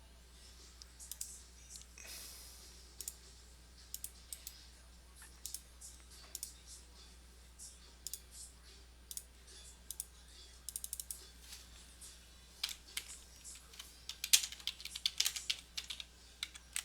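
Typing and clicking on a computer keyboard: irregular sharp taps that come faster and louder near the end, over a steady low electrical hum.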